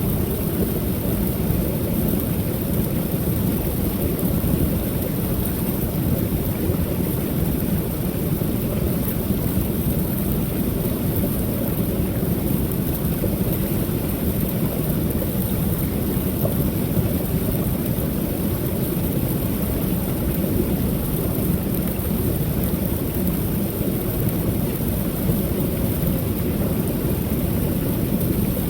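Waterfall on a creek: a steady, deep rush of falling water that stays unchanged throughout.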